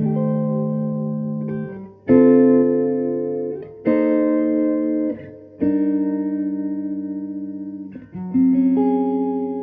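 Guitar chords strummed one at a time and left to ring out, five chords about two seconds apart, each fading before the next. The later chords have a fast, regular wobble in volume.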